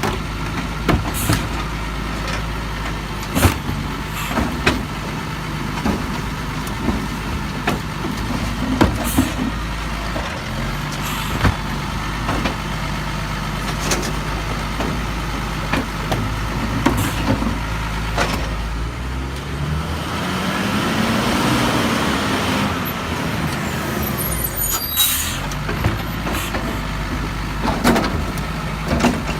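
Garbage truck's diesel engine idling with repeated knocks and clanks, then revving up and falling back over several seconds past the middle.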